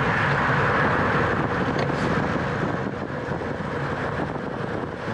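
Wind rushing over the microphone of a camera on a bicycle at racing speed: a steady noisy rush, a little louder in the first couple of seconds.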